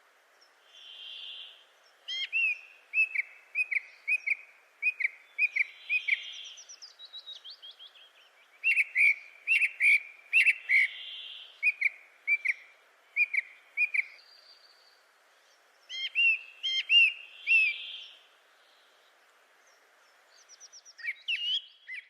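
Birds calling: runs of short, sharp, falling chirps at about two a second, with a soft whistled note every few seconds.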